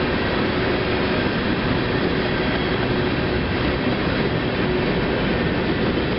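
Freight train's boxcars rolling past: a steady noise of steel wheels on the rails with a faint steady tone over it.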